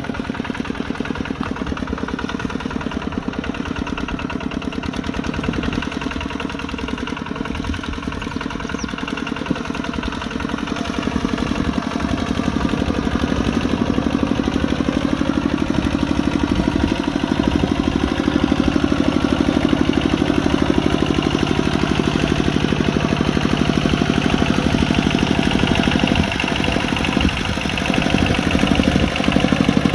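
Kubota RT140 Plus single-cylinder diesel engine running steadily with a rapid, even chugging beat, growing somewhat louder about halfway through.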